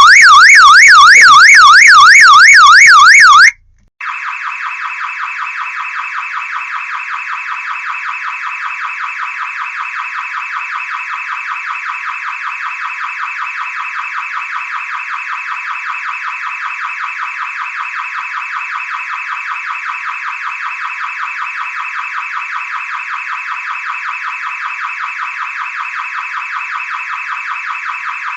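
Electronic car alarm siren: a loud tone sweeping quickly up and down several times a second, which cuts off after about three and a half seconds. After a short gap, a second, quieter car alarm pattern starts, a rapid buzzing warble held steadily.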